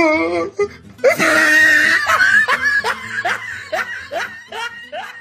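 A person laughing: a loud burst about a second in, then a run of short rising "ha" sounds, two to three a second, that fade toward the end.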